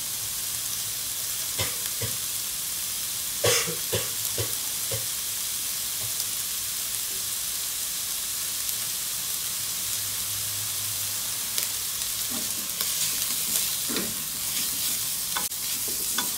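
Pork belly pieces frying in oil in a nonstick pan, a steady sizzle throughout. A few short knocks come in the first five seconds and again near the end, where a spatula stirs the pieces.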